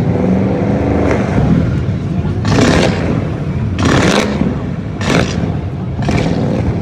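A modified car's engine revved hard while standing still. Four loud bursts come from the exhaust, about a second apart in the second half, as it spits flames.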